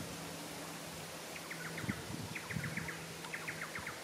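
A bird calling in quick runs of four or five short high notes, the run repeated about once a second, over a faint steady low hum.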